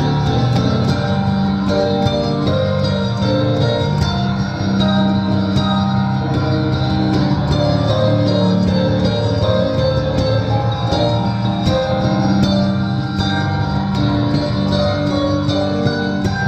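Piano playing a piece with sustained chords and a melody over them.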